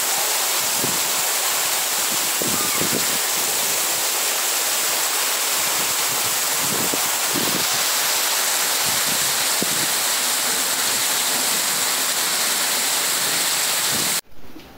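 Heavy rain pouring down as a loud, steady hiss, with a few soft low thumps. Near the end it cuts suddenly to a quieter rain recording.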